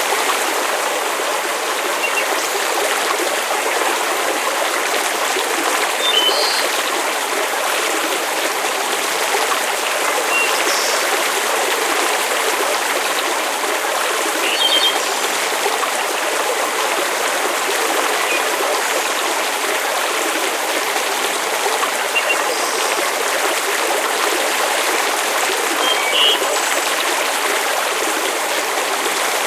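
Steady rushing water ambience, an even hiss like rain or a stream, with scattered brief faint high ticks now and then.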